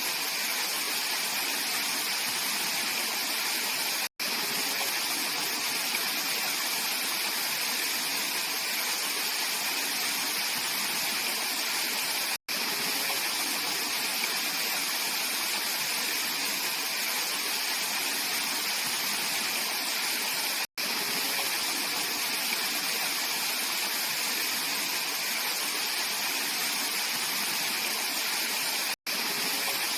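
Mountain valley stream flowing steadily, an even rush of water. A split-second gap of silence breaks it about every eight seconds.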